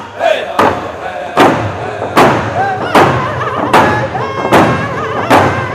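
Round dance song: singers' voices wavering over a steady hand drum beat, a little more than one strike a second.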